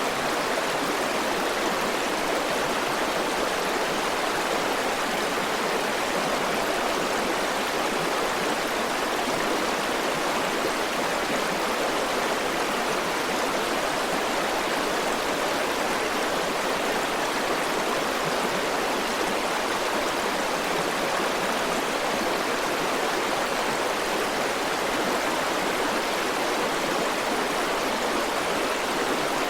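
River water flowing steadily over rocks, an even, unchanging rush of running water.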